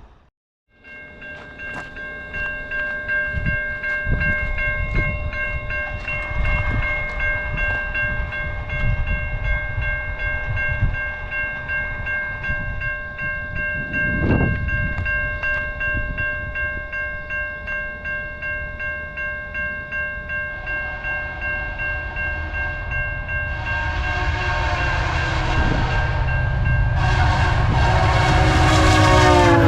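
Level-crossing warning bell ringing steadily as a train approaches. From about 24 seconds in the train's rumble grows louder and its horn sounds, the horn's pitch dropping near the end as the train reaches the crossing.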